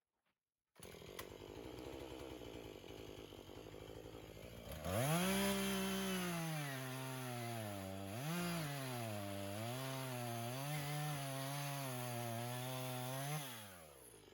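Chainsaw idling, then opened up to full throttle about five seconds in. Its pitch sags and wavers as it cuts into the wood, then drops away as the throttle is released near the end.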